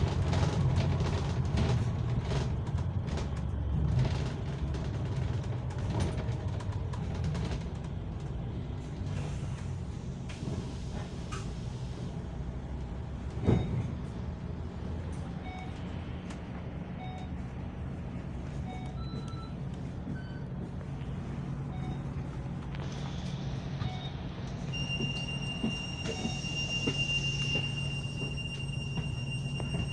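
Hong Kong MTR train running, a steady low rumble, with a single knock about halfway through and scattered short electronic beeps. Near the end a high, steady electronic tone sounds for about five seconds.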